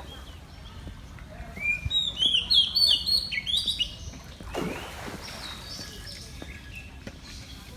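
A songbird singing a quick run of bright, gliding chirps and whistles for about two seconds, followed by fainter high calls; a short whoosh comes about halfway through.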